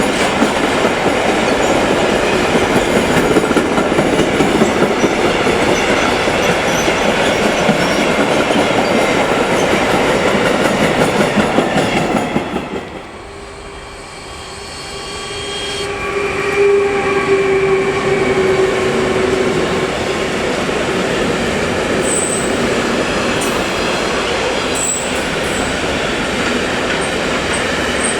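Trains running by on the track: a loud rush with wheel clatter for about twelve seconds, which drops away suddenly. Then a second train's sound builds, carrying a steady tone for a few seconds and brief high wheel squeals.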